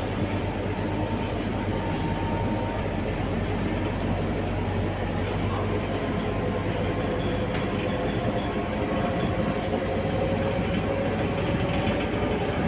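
Scania K230UB city bus in motion, heard from inside the cabin: a steady drone of its five-cylinder diesel engine mixed with road noise. The engine tone rises slightly in pitch around the middle as the bus gathers speed.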